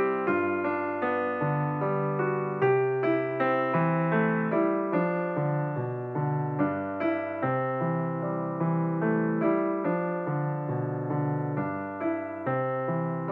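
Gentle instrumental piano music: a melody of struck, fading notes over slowly changing bass notes.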